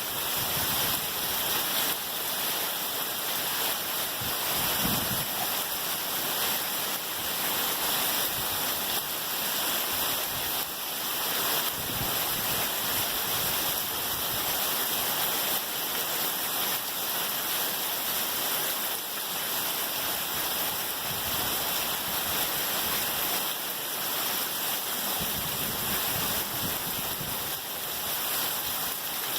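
Torrential thunderstorm downpour, a steady dense hiss of heavy rain, with a few brief low rumbles through it.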